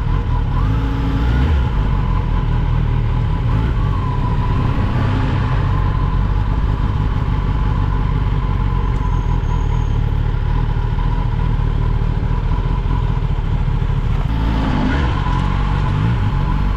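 A 2024 Kawasaki Ninja ZX-10R's inline-four engine running steadily through the stock exhaust, holding an even level with no clear revving.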